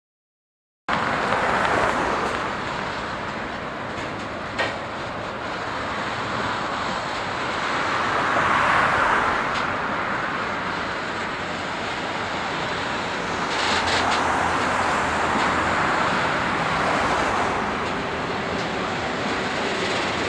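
Train rolling along the track, a steady rolling noise that swells and eases, with a few sharp clicks. It starts abruptly about a second in.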